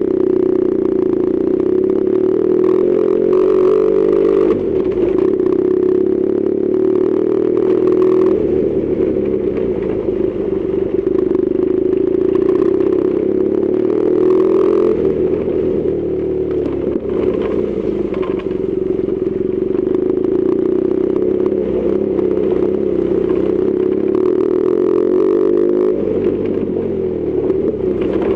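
BMW R1200GS Adventure's boxer-twin engine running under way, its pitch rising and falling several times with throttle and gear changes, over a steady clatter and scrape of tyres on an unpaved gravel road.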